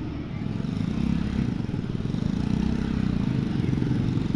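Motorcycle engine running steadily, a low even drone that grows slightly louder about a second in.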